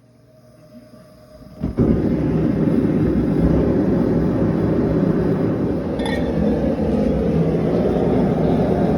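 A forge running with a steady, loud rushing noise while the steel billet heats. It starts abruptly a little under two seconds in, after a quieter moment.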